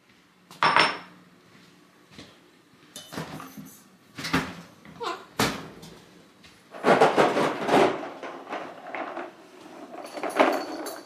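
Kitchen things being handled while getting breakfast started: a handful of sharp knocks and clicks spread out, with a longer stretch of clattering about seven seconds in.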